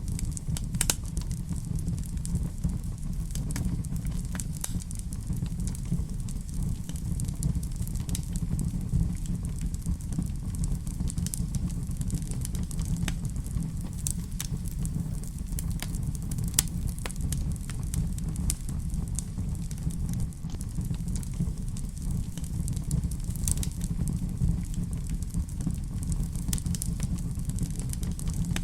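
Wood fire crackling in a fireplace: scattered sharp pops and ticks over a steady low rumble.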